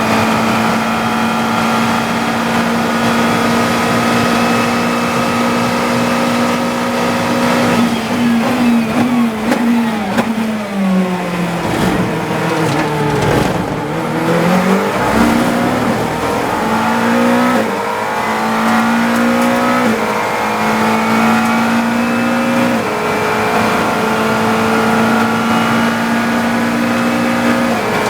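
GT3 race car engine heard onboard, running flat out at a steady pitch. About eight seconds in it drops through several quick downshifts under braking. It then climbs back through the gears in a series of rising upshifts and holds steady at full throttle again near the end.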